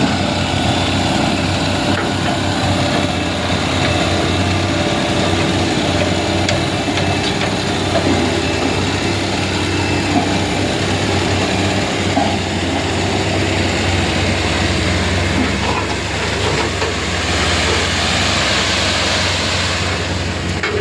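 Heavy vehicle engine running steadily at a low, even pitch, with a rushing hiss for a couple of seconds near the end.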